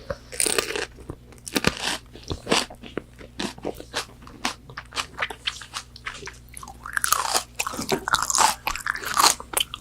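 Close-miked eating of crispy fried McDonald's chicken nuggets: sharp crunching bites and chewing, with a denser run of crunching near the end.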